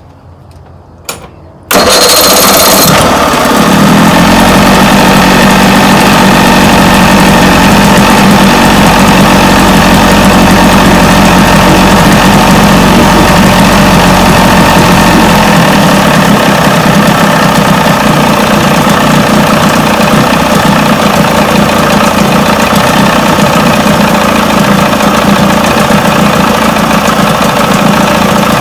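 1980 Chrysler 45 hp two-stroke outboard motor starting up about two seconds in after a couple of faint clicks, then running steadily at idle with its carburettor mixture screws set two turns out.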